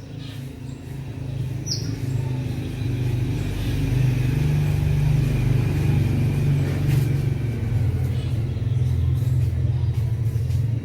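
A motor vehicle's engine rumbling nearby, building over the first few seconds and then holding steady. A single short bird chirp comes about two seconds in.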